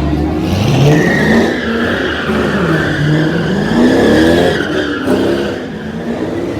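Car spinning its tyres at a burnout: the engine revs up and down repeatedly while the tyres squeal, loudest in the first half.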